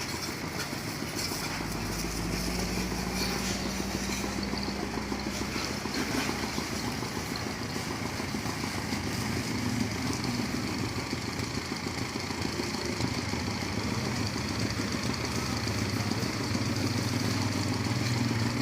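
An engine or motor running steadily, with a hum whose pitch shifts partway through, under a continuous hiss.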